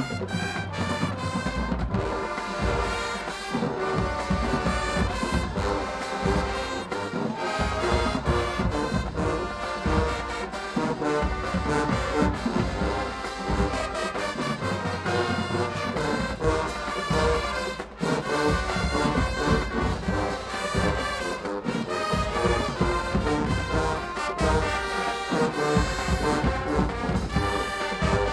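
A marching band's brass section playing with a driving drum beat, trombones and trumpets carrying the tune.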